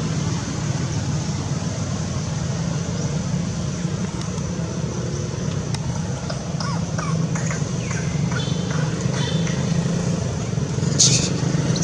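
Monkeys calling over a steady low drone: scattered short squeaks through the middle, then a harsh, high shriek about eleven seconds in.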